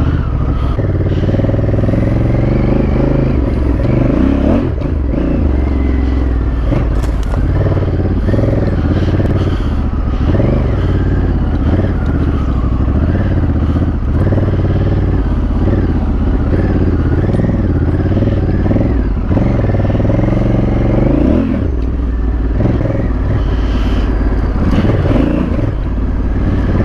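Honda Africa Twin's parallel-twin engine pulling in first gear, its revs rising and falling again and again as the bike rides through sandy whoops.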